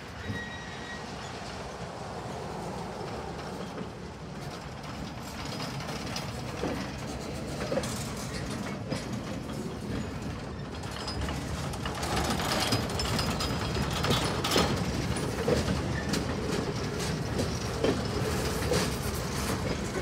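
Freight boxcars being shoved past over a grade crossing, their steel wheels rumbling and clicking over the rail joints. It gets louder about twelve seconds in.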